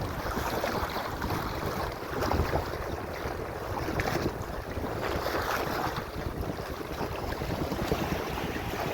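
Wind buffeting the microphone over the rush of water along the hull of a small sailboat under way.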